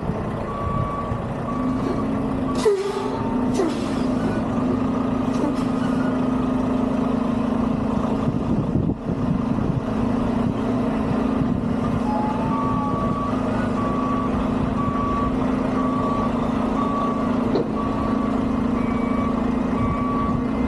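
Semi-truck reversing: its back-up alarm beeps about once a second over the steady running of the diesel engine. A short, sharp burst sounds about 3 seconds in.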